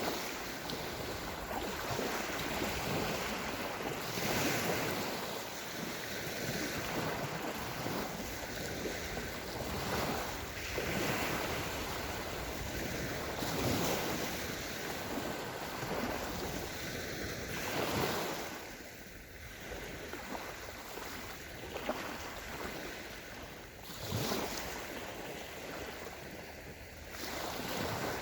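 Small Sea of Azov waves breaking and washing up a sandy shore, swelling every few seconds, with some wind buffeting the microphone.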